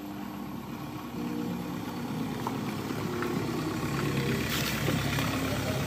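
Fiat Punto's four-cylinder diesel engine running at low speed as the car approaches and pulls up close, growing louder.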